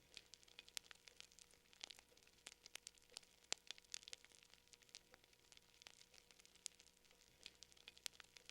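Fire crackling faintly: irregular sharp pops and snaps, several a second.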